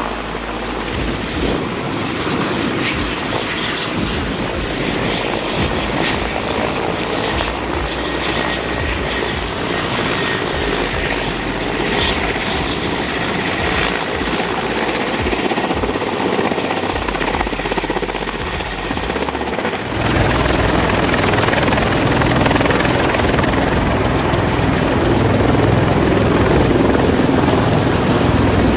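Large helicopter running, a steady engine and rotor noise. About two-thirds of the way through it cuts abruptly to another, louder helicopter recording with a heavier low rumble.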